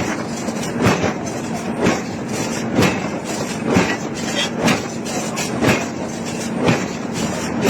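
Heavy hammer blows on hot iron at a forge, about one strike a second with lighter knocks between, over a steady machine hum.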